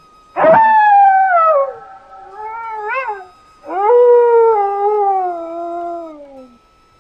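An animal howling: three calls, the first falling in pitch over about a second, a short rising-and-falling one about three seconds in, then a long falling call lasting nearly three seconds.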